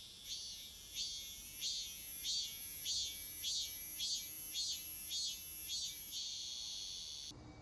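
Cicadas singing: a shrill, pulsing call repeating about one and a half times a second, swelling and then running into a continuous buzz before cutting off suddenly near the end.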